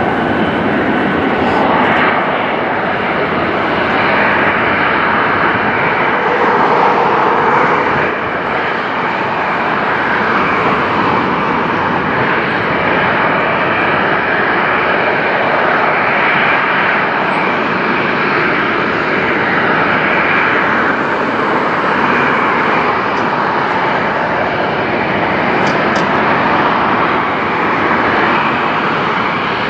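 Jet airliner engines at takeoff power: a loud, steady rushing noise that holds without much change.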